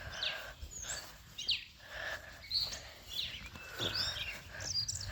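Songbirds calling: a string of short chirps and whistles repeating throughout, over a faint low background rumble.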